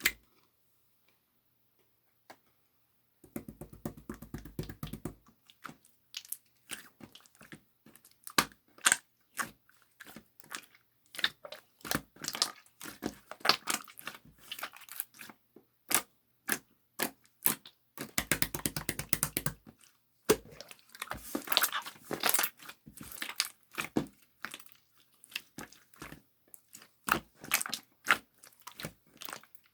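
Slime being squeezed and pressed by hand, making many small clicks, pops and crackles, with two stretches of dense, fast crackling, one a few seconds in and one past the middle.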